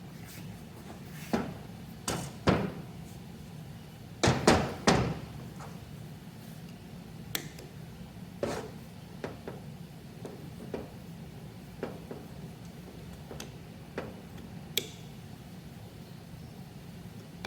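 Irregular knocks and clicks of tools and metal parts being handled while a Monarch 10EE lathe's compound slide is taken apart. The loudest cluster of knocks comes about four to five seconds in, then lighter single clicks follow every second or so, over a low steady hum.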